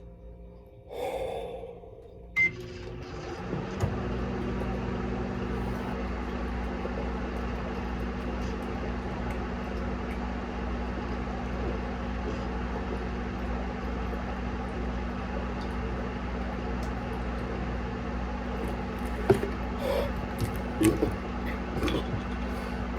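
Microwave oven started with a single keypad beep, then running with a steady hum as a one-minute timer. A few sharp clicks come near the end.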